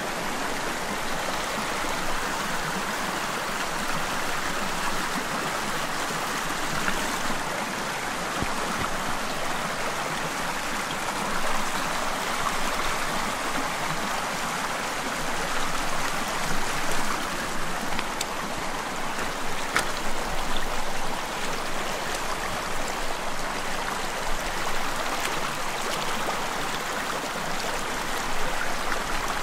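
Stream water flowing steadily over rocks.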